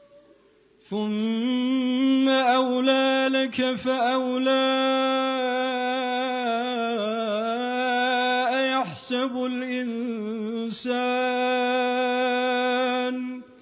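Male reciter chanting the Quran in a melodic tajwid style, holding long drawn-out notes with only brief breaks for breath. The voice comes in about a second in, after near silence, and stops just before the end.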